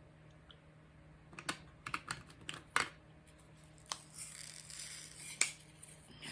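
A series of sharp clicks and taps, a quick cluster about a second in, then a few single clicks, the loudest near the end, with a soft rustle between them.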